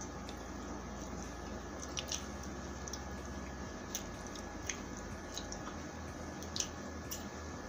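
Close-miked chewing of sauced fried chicken: wet mouth clicks and smacks scattered through steady chewing.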